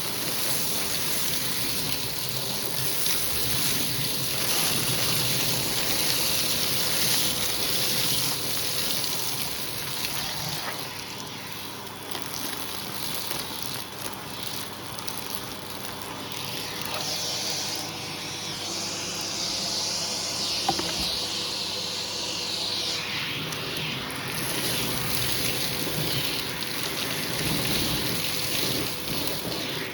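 Hoover vacuum cleaner running, sucking through a hose tool over a shag rug, with a faint steady motor whine under the suction hiss. The hiss swells and fades as the tool is worked over the rug.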